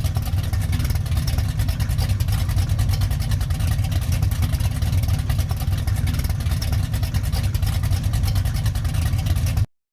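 Old Dodge Dart race car's engine running at a steady, loud, rumbling idle with rapid exhaust pulses, stopping abruptly near the end.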